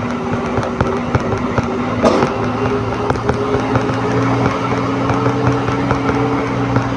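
Yamaha NMAX 155 cc scooter engine running steadily while riding, its note rising slightly about three seconds in, with wind and road noise.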